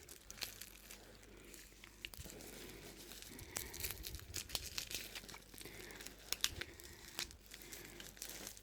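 A small plastic packet crinkling and rustling in the hands as someone pulls at it, trying and failing to tear it open. The sound is faint, with scattered short crackles.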